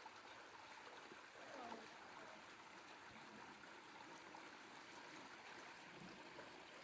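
Near silence: a faint, steady outdoor hiss.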